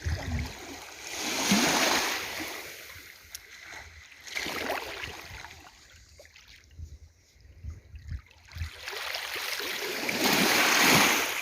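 Small waves washing up on the beach, surging and falling back three times.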